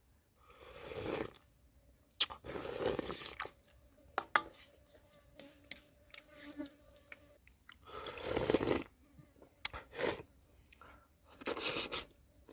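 A person eating close to the microphone: chewing with sharp, crunchy clicks, and four longer noisy mouth sounds about a second each.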